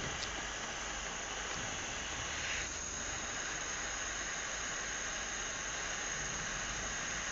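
Model lamina-flow Stirling engine running, heard as a steady hiss with no clear beat.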